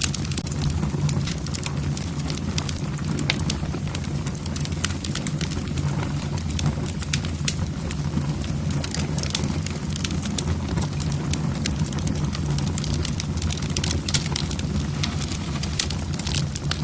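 Wood logs burning in a fireplace, crackling with many small irregular pops over a steady low rumble.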